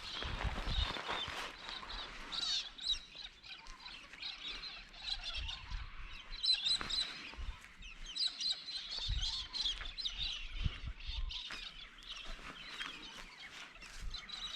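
Many birds chirping and calling together in the trees, a busy dawn chorus of short high calls, with a few soft low bumps.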